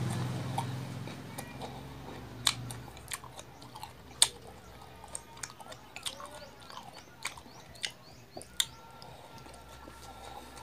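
Close-up mouth sounds of a man eating mango slices dipped in shrimp paste: wet chewing with sharp lip smacks and clicks scattered throughout, a few of them louder. A low hum fades out in the first few seconds.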